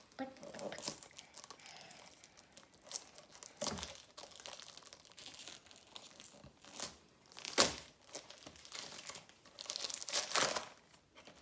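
Packaging of a Funko Mystery Mini blind box crinkling and tearing as it is opened by hand, in irregular bursts, the loudest a little past halfway.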